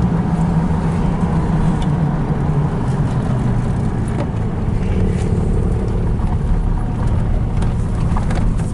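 Steady low rumble of a car's engine and cabin, heard from inside the car.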